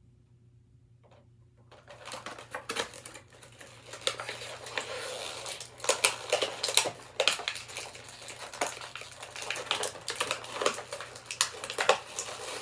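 Hard plastic action-figure packaging and small accessory parts being handled, a dense run of irregular clicks, taps and rustles that starts about two seconds in after a near-silent pause.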